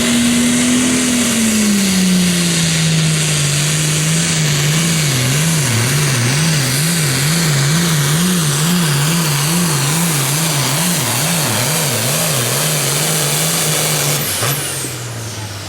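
Super Farm class pulling tractor's engine running flat out under load down the track. Its pitch sags early, then wavers up and down about twice a second as the tractor hops, before steadying and dropping off near the end. The hopping is what the commentators put down to a slipping clutch or some other major problem.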